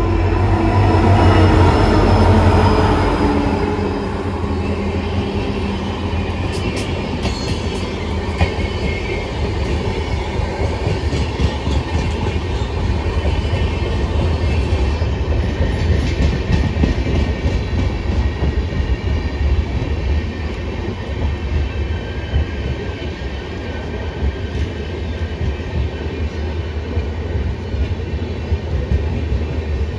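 WDP4 diesel-electric locomotive's EMD two-stroke engine passing close, loud for the first few seconds with its engine note falling as it goes by. Then the coaches roll past with a steady rumble and rhythmic clicking of wheels over the rail joints.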